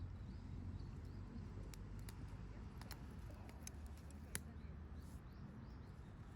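Campfire burning, with sparse sharp crackles and pops from the wood over a low steady rumble; the loudest pop comes a little past the middle.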